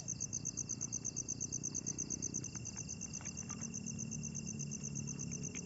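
Crickets chirping in a fast, even pulse of about ten chirps a second, with a second insect holding a steady high note underneath and a low, steady rumble below.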